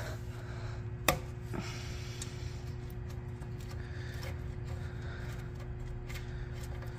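Steady low background hum with two light clicks about a second and a second and a half in.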